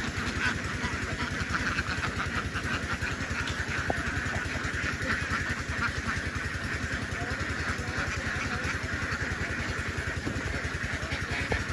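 Small engine running steadily with a fast, even putter, over a dense chatter of many ducks.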